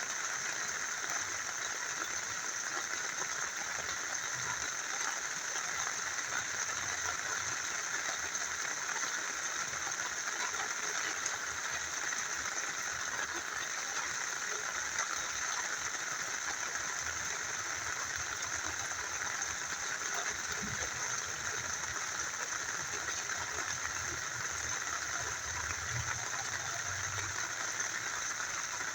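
A small river flowing steadily, with rain falling: an even, unbroken rush of water.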